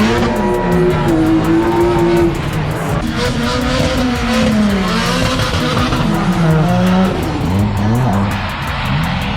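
Drift car engines revving hard, their pitch rising and falling again and again as the cars are flicked and held sideways through the corners. A music track plays underneath.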